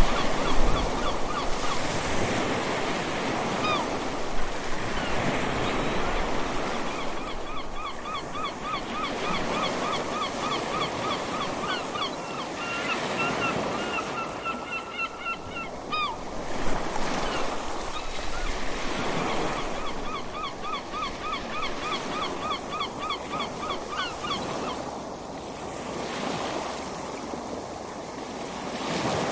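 Ocean surf washing onto a beach, swelling and easing every few seconds. Over it, bouts of short calls repeated several times a second come and go, most of the time.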